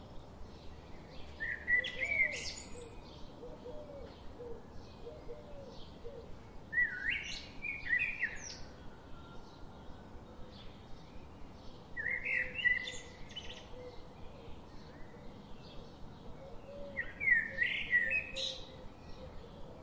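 Birds chirping: a short phrase of quick, gliding whistles comes about every five seconds, four times, over a steady run of soft, rapid chirps.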